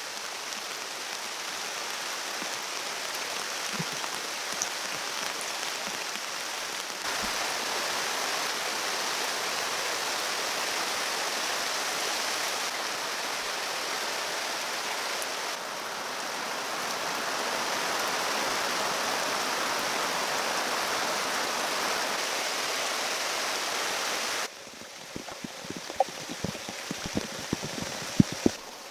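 Steady rushing noise of water, broken by several abrupt cuts. Near the end it drops away to a quieter background with a quick run of sharp clicks and knocks.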